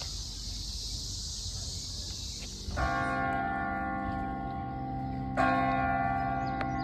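Insects buzzing in a high steady drone, then a large tower bell strikes twice, nearly three seconds in and again about two and a half seconds later, each stroke ringing on. The two strokes toll the hour: two o'clock.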